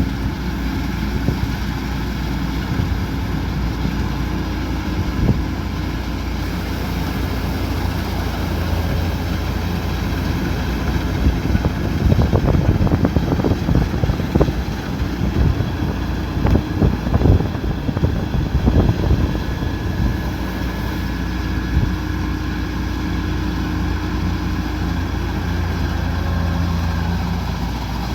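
Kubota combine harvester running steadily in a rice field, a continuous low engine hum with steady machine tones, broken around the middle by a stretch of irregular crackling and knocking.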